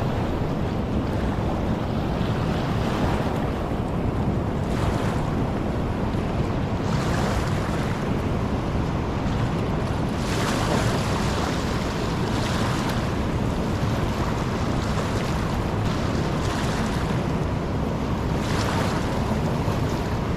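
Fast, swollen river rushing steadily, with brief brighter surges of splashing water every few seconds.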